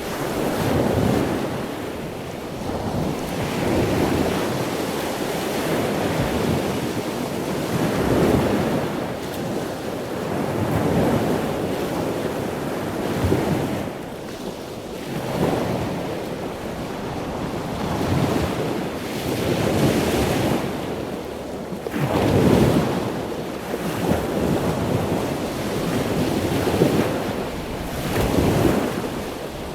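Ocean surf: waves breaking and washing in, surging every two to three seconds over a constant rush of water.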